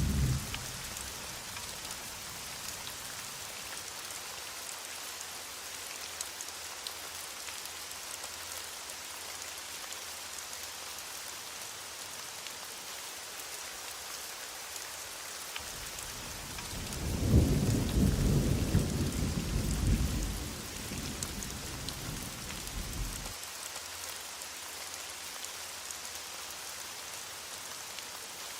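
Steady heavy rain with a hissing patter, and a low roll of thunder building about halfway through and rumbling for several seconds before it fades.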